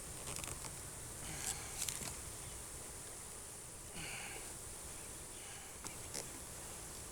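Wooden beehive boxes and frames being handled: a few light knocks and clicks, and a short scrape about four seconds in, over a faint steady background.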